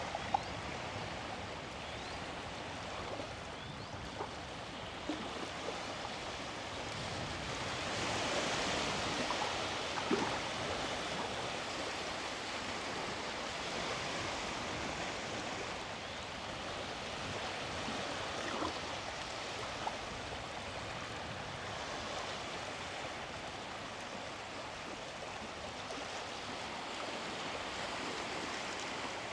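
Small sea waves washing onto the beach, a steady hiss of surf that swells louder about a third of the way in.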